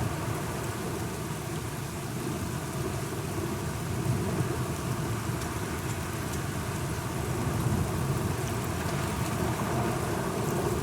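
Steady rain falling, with fine drop ticks over a continuous low rumble.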